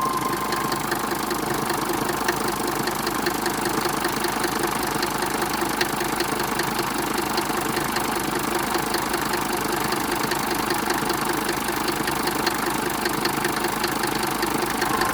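Mercedes-Benz OM602 five-cylinder diesel engine idling steadily, with a fast, even diesel clatter.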